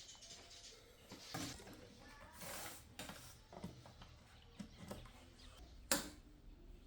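Faint, scattered small mechanical clicks and short scrapes, with one sharper click about six seconds in.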